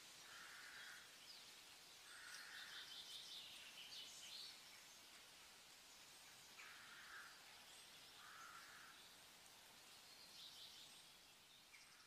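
Faint bird calls over a steady hiss: a few short, lower calls spaced a couple of seconds apart, with higher chirps in between.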